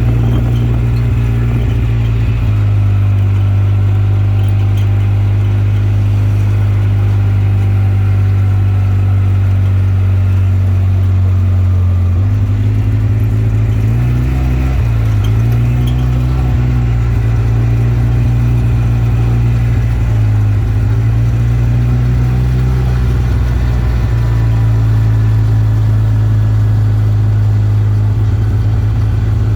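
An off-road vehicle's engine running steadily at a loud, even level. Its pitch rises and dips a few times, around the middle and again later.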